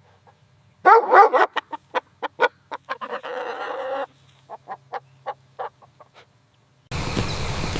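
A chicken clucking: a quick series of short clucks, a longer drawn-out call in the middle, then more clucks. Near the end the sound cuts abruptly to a steady, noisy background.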